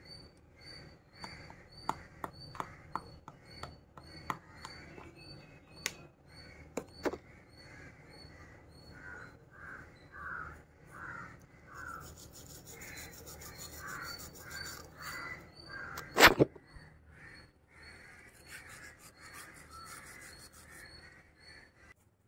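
Birds calling: a long run of repeated harsh calls about twice a second. A few sharp clicks come in the first seven seconds, and a loud knock about 16 seconds in.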